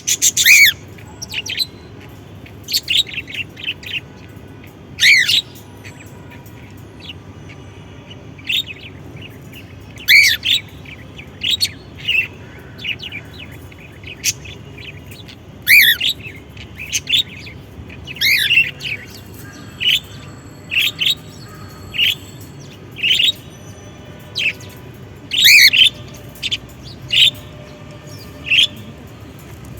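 Pet parrot chirping and calling in short bird calls that glide up and down in pitch, one every second or so, some in quick runs of two or three.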